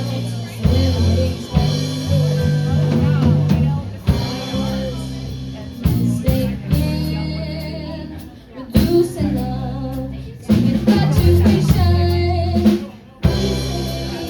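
A live band playing a song on drum kit and guitar with held low bass notes, a voice singing in places.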